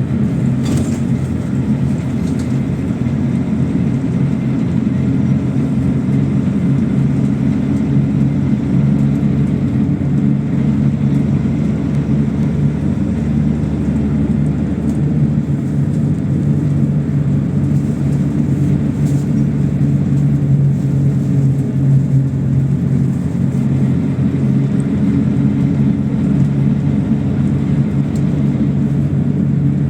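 PAZ-32054 bus under way, heard from inside: a steady low engine drone mixed with road rumble.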